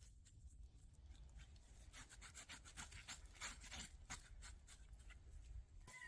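Faint, quick scraping strokes over the singed skin of a pig carcass, coming thickest from about two seconds in.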